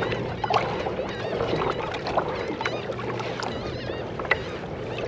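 Water noise and scattered sharp knocks and clicks on a fishing kayak, with high wavering chirps repeating in the background.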